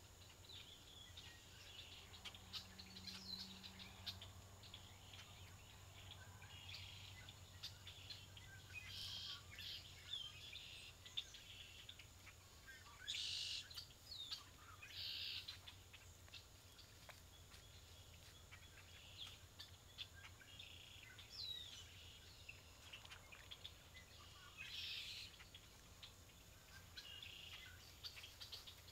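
Faint wild birds calling: short scattered chirps and calls, with a few louder brief bursts of calling, over a low steady hum and faint hiss.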